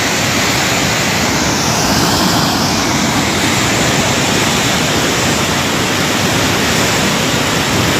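Floodwater of a swollen river rushing and churning in a loud, steady roar of water.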